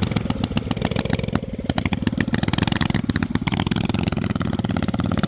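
Small single-cylinder mini bike engine running with a fast, even firing beat, which a bystander says sounds like it is still on choke.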